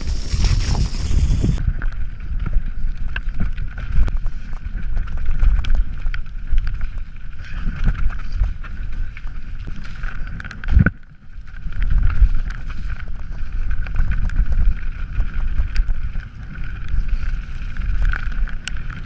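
Canyon Strive enduro mountain bike descending a wet, rough trail: a continual low rumble with clattering knocks from the bike over the ground, and wind on the camera microphone. A steady high-pitched whine runs through most of it, and the noise drops briefly about eleven seconds in.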